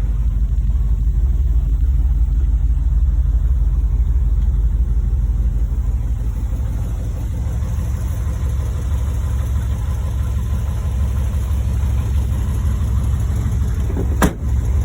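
1982 GMC 2500 pickup's engine running steadily with a deep, low-pitched sound. A single sharp click comes near the end.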